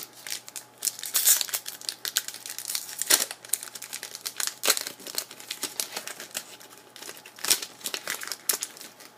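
Hockey card pack wrapper being crinkled and torn open by hand: an irregular run of sharp crackles and rustles, loudest about a second in and again near the middle.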